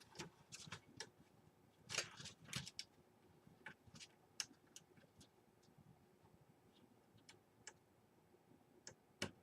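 Faint, scattered small clicks and taps of the case's front-panel LED connector leads being handled and fitted onto motherboard header pins, with a few slightly louder ones about two seconds in and near the end.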